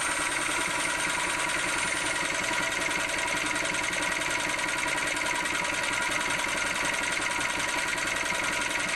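Small pull-start engine running steadily on a GEET fuel reactor, burning a dirty mix of diesel, soap and water drawn through a bubbler. It keeps an even, fast beat, with a faint high whistle that stops about two seconds in.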